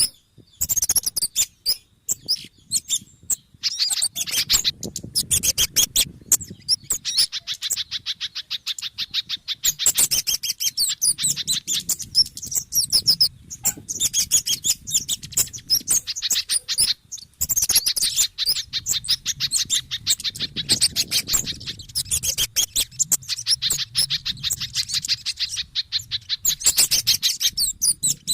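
Bird-lure recording of agitated songbird calls mixed from kemade, sogon and pijantung birds: dense, rapid high-pitched chips and twitters, many per second, in long runs broken by short pauses, over a low rumble.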